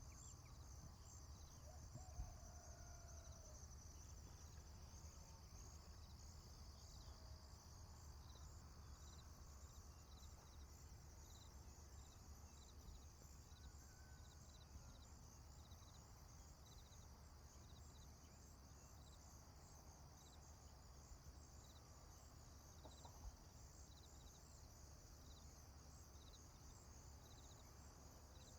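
Faint rural ambience: a steady chorus of insects chirping in rapid repeated pulses, high-pitched, over a low background rumble, with a few faint distant bird calls.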